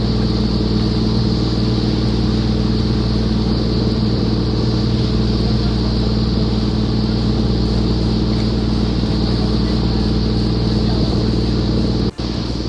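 Fishing boat's engine running steadily under way, a low even drone with the rush of wind and sea over it. The sound drops out for an instant near the end.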